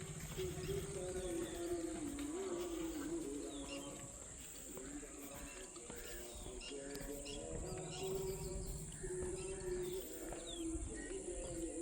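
Village evening ambience: small birds chirping over a steady high-pitched hiss. A long, wavering, pitched call or voice carries through it in two long stretches, the first at the start and the second from about seven seconds in.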